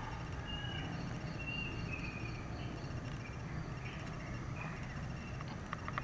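Ambient birds chirping in short calls over a steady low rumble, with a faint high pulsing call repeating a few times a second. A few sharp clicks come near the end.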